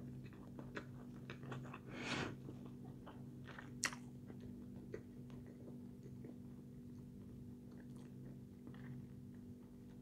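Faint chewing of a mouthful of food with the mouth closed: soft wet clicks scattered through, a short rushing noise about two seconds in and a sharper click near four seconds. A steady low hum runs underneath.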